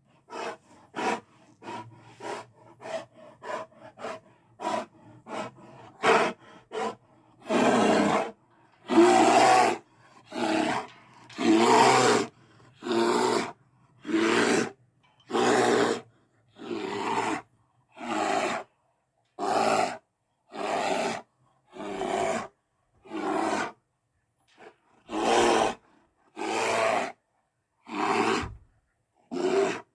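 T. rex roar sound effects. First comes a quick string of short growls, about two a second, then from about 7 seconds in a series of longer roars, each about a second long and repeated every second and a half or so, with dead silence between them.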